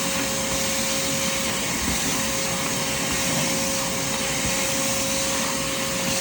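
Vacuum cleaner running steadily while being worked over a thin doormat, a constant rushing of air with a steady motor whine.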